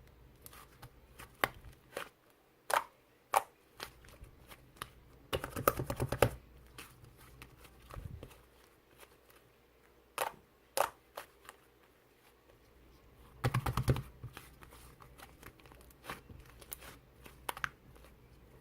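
Slime being squeezed and poked by hand, giving sharp scattered clicks and pops of trapped air, with two short bursts of rapid crackling, about five seconds in and again near fourteen seconds.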